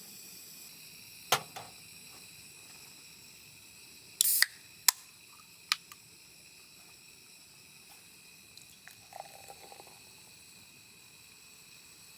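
A few sharp clicks and knocks, with a brief hiss-like burst about four seconds in and a light clatter near the end, like small objects being handled. Under them runs a steady high insect drone.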